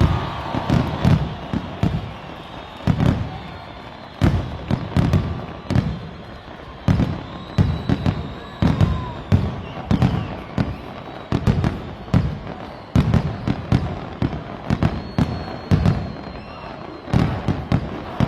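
Fireworks going off in quick, irregular succession: sharp cracks and deep booms, sometimes several in a second.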